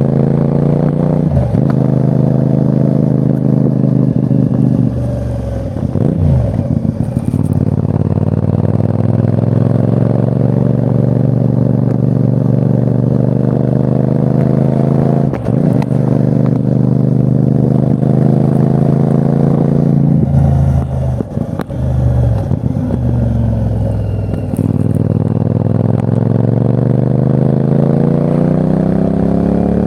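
CFMOTO 450NK's parallel-twin engine under way, its pitch climbing through the gears with sharp breaks at each gear change. Twice the revs fall and the sound drops as the throttle is rolled off, before it pulls and climbs again.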